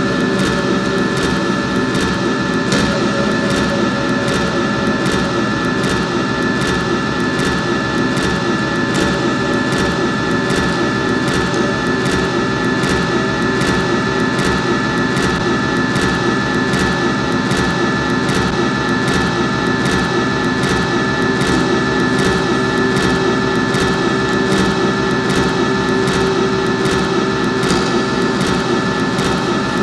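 Loud, dense electronic drone of mixing-desk feedback routed through effects pedals, with several held tones layered over noise and a steady, regular pulsing that never lets up.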